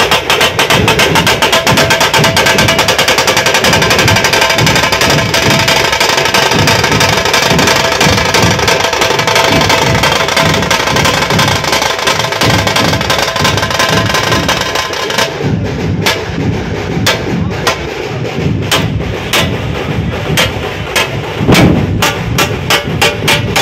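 Dhol-tasha troupe drumming: big dhol drums and tasha drums playing a fast, loud rhythm. About two thirds of the way through, the dense high rattle drops away and leaves sharper, separate strikes.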